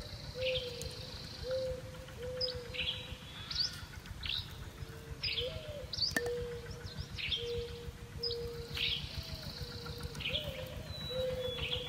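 Birds calling repeatedly: a steady string of short low notes, each about half a second long, mixed with high chirps that drop in pitch about once a second.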